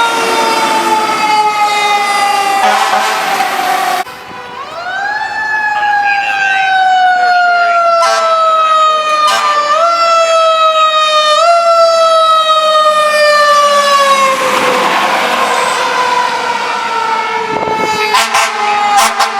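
Fire truck's wind-up siren, its wail slowly falling in pitch. About four seconds in the sound cuts off abruptly; the siren then winds up again, coasts down over several seconds and is briefly pushed back up twice. A rush of noise joins it about two-thirds of the way through.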